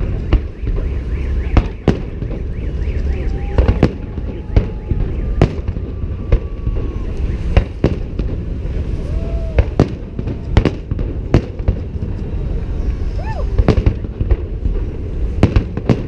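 Fireworks display: shells bursting in sharp bangs, roughly one a second at irregular intervals, over a continuous low rumble.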